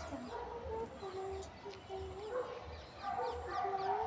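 Several cats meowing for food, short overlapping calls one after another.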